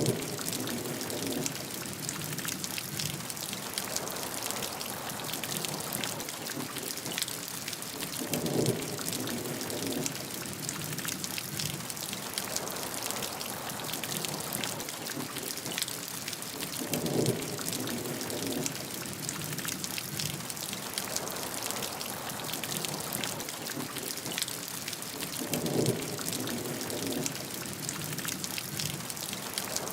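Steady rain with dense, close drop ticks on a surface. A short, lower splash-like swell recurs at even spacing about every eight and a half seconds, the same each time, as from a looped rain recording.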